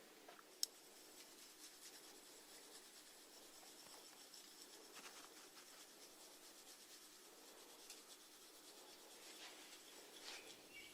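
Faint, close-miked crackling and scratching from snails, with one sharp click less than a second in.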